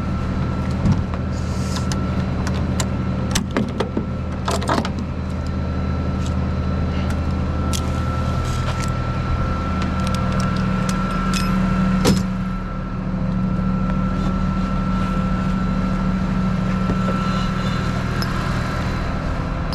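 Tow truck running, heard from inside the cab: a steady low engine and road drone with a faint constant whine above it, and a few short clicks and knocks.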